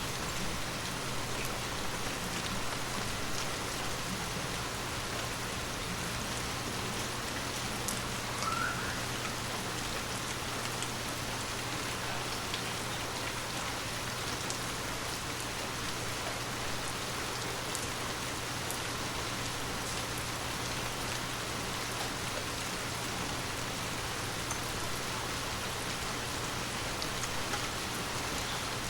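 Heavy rain falling steadily, with scattered single drops ticking sharply, over a faint steady low hum.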